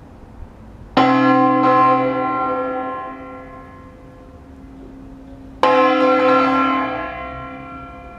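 Large church bell, the tenor of an eight-bell ring in C, swung mouth-up and striking twice about four and a half seconds apart. Each stroke rings out and slowly fades, as part of a solemn funeral toll.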